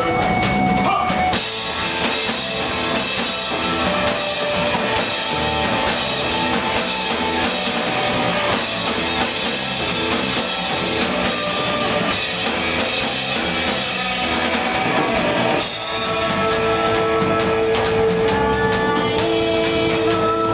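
Rock band playing an instrumental passage live, with drum kit and guitar. About fifteen seconds in the sound shifts and a long held note comes in over the band.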